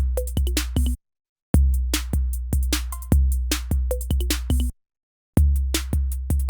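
Sampled drum-machine beat played back from an Akai MPC sampler: a long, deep booming kick under sharp snare and hi-hat hits. The loop stops dead about a second in and again near the five-second mark, each time restarting after half a second of silence.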